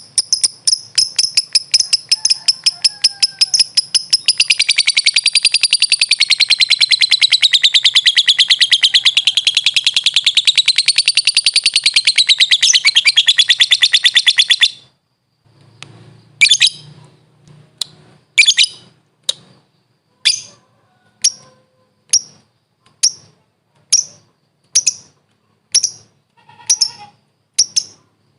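Lovebird giving a long, very rapid chattering trill, the ngekek song, that wavers in pitch and cuts off abruptly about halfway through. After a short pause come single sharp high chirps, about one a second.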